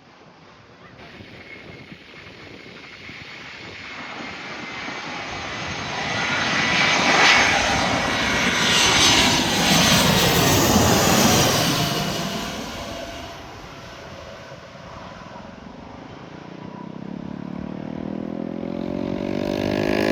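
Jet airliner engines passing close by. The sound swells to a peak in the middle, then fades, with the engine tones falling in pitch as the aircraft goes past. Near the end another jet's engine sound grows louder.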